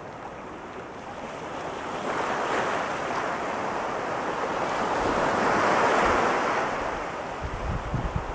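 Ocean surf breaking and washing up a sandy beach, the noise swelling over several seconds and then easing. Wind buffets the microphone in gusty thumps near the end.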